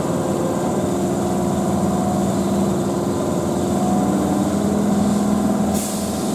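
Keihan 9000-series commuter train standing at the platform, its onboard equipment giving a steady hum with a few level tones. A hiss comes in near the end.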